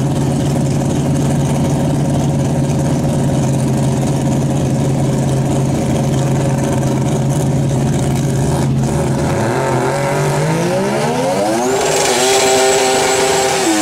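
Mazda RX-7 drag car's rotary engine idling loudly and steadily, then revving up over about two seconds and held at high revs as the rear tyres spin in a burnout.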